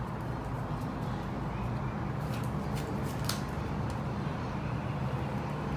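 Steady low room hum, with a few light clicks of trading cards being handled on a table.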